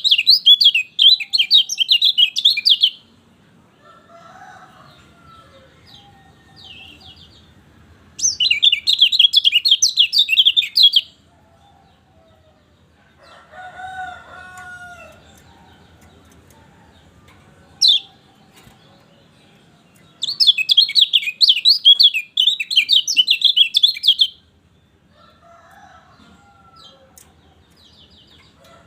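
Kecial kuning, a yellow white-eye, singing three bursts of rapid, high twittering song, each about three to four seconds long. Fainter, lower calls come between the bursts, the clearest about halfway through.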